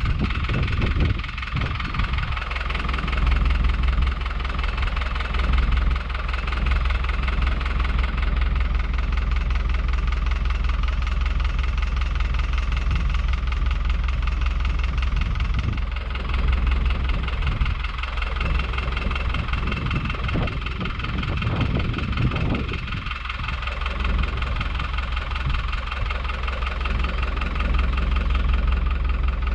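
A vehicle engine running steadily with a fast, even beat, pulling on a chain tied to a flipped mobile chicken coop.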